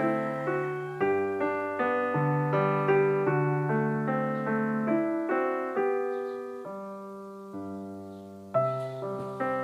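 Background piano music, a gentle melody of struck notes over a low bass line, thinning and quietening a little past the middle before picking up again.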